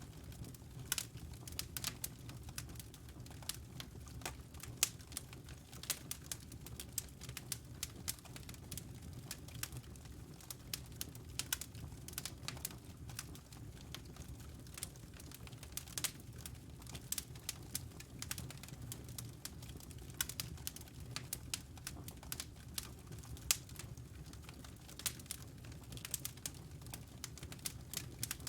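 Campfire crackling: irregular sharp pops and snaps, a few each second, over a low steady rumble of burning wood.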